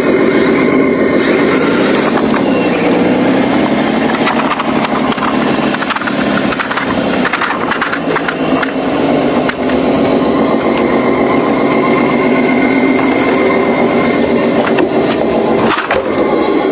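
Heavy truck's engine running under load, its pitch rising and falling, with a few knocks and rattles.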